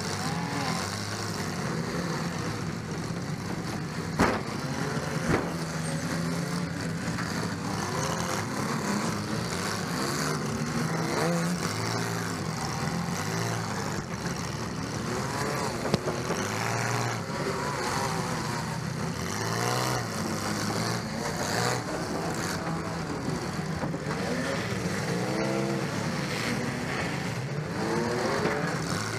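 Demolition-derby car's engine running hard and revving up and down, heard from inside the stripped cabin. Sharp bangs about four and five seconds in and again near the middle.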